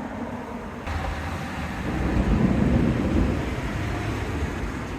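Thunder from a nearby lightning strike: it breaks in suddenly about a second in and rolls into a low rumble that builds, peaks in the middle, then fades toward the end. The speaker calls it a loud strike.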